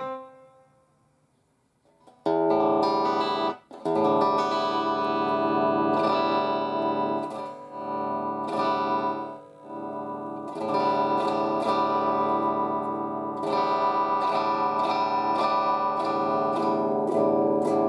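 A piano note fades out, then after about two seconds of quiet, guitar chords are strummed through an amplifier with effects, held steady with a brief dip near the middle.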